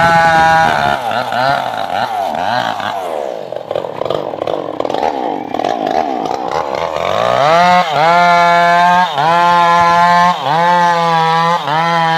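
Two-stroke chainsaw engine running at high revs. About a second in its speed falls and stays lower for several seconds, then it climbs back to full speed and keeps dipping briefly and recovering about every second and a half.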